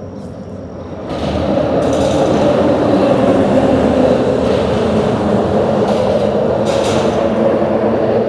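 A vehicle crossing a bridge: a steady rumble with a hum, swelling about a second in and cutting off sharply near the end.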